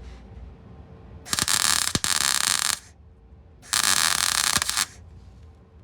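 Two bursts of arc welding on the car's steel sill panel, the first about a second and a half long, the second about a second, with a short pause between.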